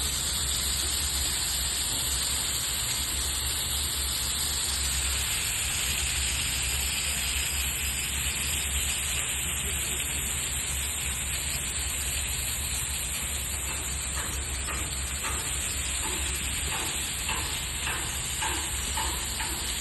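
Rain curtain running: water falling in many streams and splashing down, a steady hiss.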